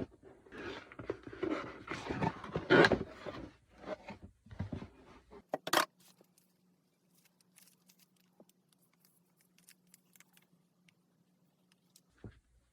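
Packaging being handled and opened: about five seconds of rustling and scraping, loudest near the middle, then a sharp click. After it only a faint steady hum is left, with a couple of soft thumps near the end.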